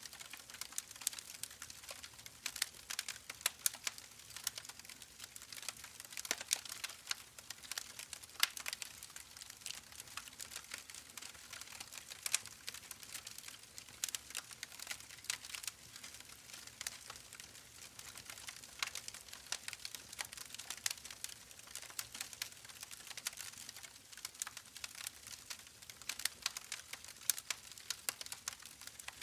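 Campfire crackling: burning wood giving off a dense, irregular run of sharp pops and snaps over a faint hiss.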